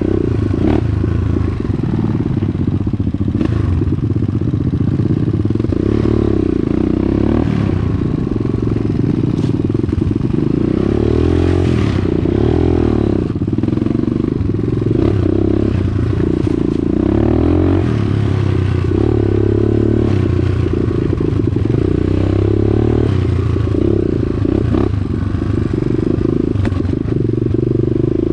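Dirt bike engine running under load on a trail ride, its pitch rising and falling again and again as the throttle opens and closes, with clatter and knocks from the bike over rough ground.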